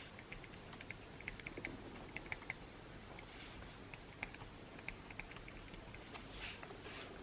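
Pen and mechanical pencil writing on paper: light, irregular clicks and taps with a couple of short scratchy strokes.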